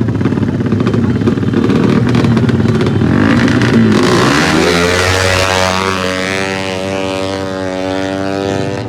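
Racing motorcycle engine revving hard and rough. About four seconds in, a clear engine note climbs and then holds steady at a high pitch.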